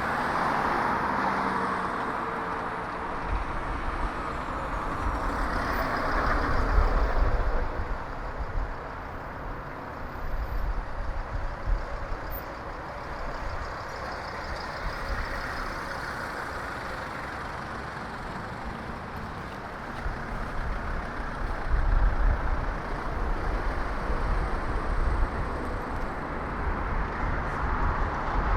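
Road traffic heard from a moving bicycle: vehicles passing, swelling and fading, with bursts of low rumble at times.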